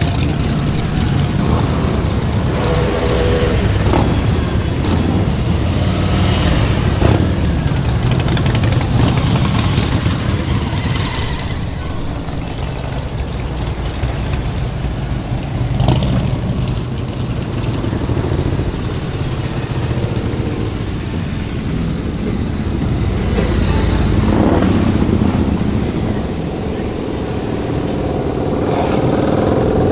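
Motorcycle engines running in a group ride, the sound rising and falling as bikes come and go.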